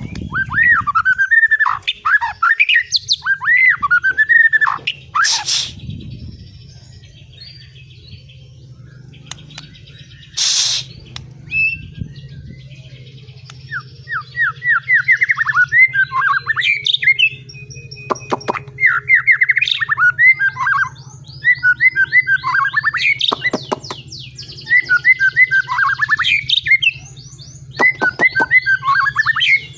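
Songbird singing a bird-song training track (masteran), in repeated phrases of fast, sweeping whistled notes broken by short pauses, over a steady low hum. Two brief bursts of noise cut in, about five and ten seconds in.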